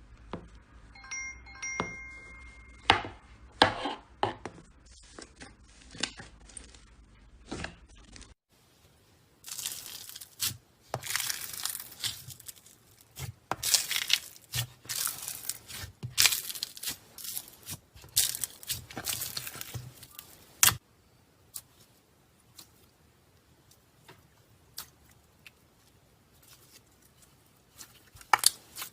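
Slime being squeezed, stretched and poked by hand: sticky clicks and crackly popping bursts, densest from about ten to twenty seconds in, then only sparse clicks. A brief chime-like tone sounds about a second in.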